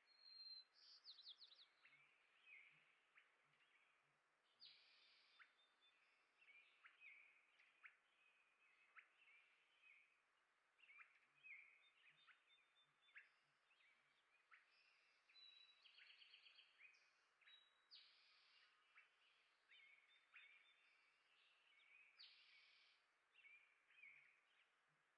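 Faint bird chirping: many short chirps and brief trills from small birds, repeating irregularly, with a few faint low taps among them.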